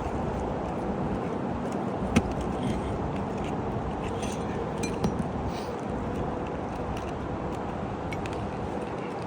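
Steady rumbling background noise, with a sharp tap about two seconds in and a softer one about five seconds in.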